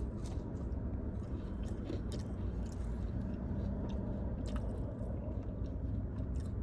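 A person chewing and biting food close to the microphone: wet mouth sounds with a few sharp little clicks scattered through, over a steady low hum.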